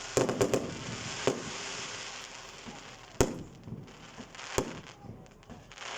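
Fireworks going off: a quick cluster of sharp cracks at the start, crackling in between, and single sharp bangs about one, three and four and a half seconds in.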